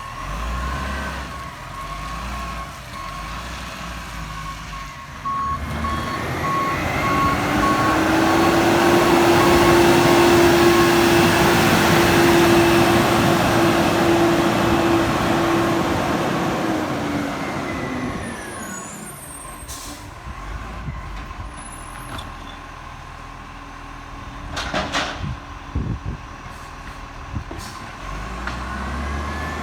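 Garbage truck: evenly repeating reversing beeps, then its engine noise swelling loud with a steady held tone for several seconds before fading away. A few sharp knocks near the end.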